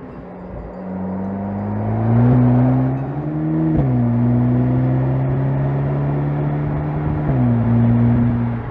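Volkswagen Golf GTI Clubsport's turbocharged four-cylinder engine pulling under acceleration, its pitch rising steadily. About four seconds in, an upshift drops the pitch sharply before it climbs again, and it falls once more a little past seven seconds.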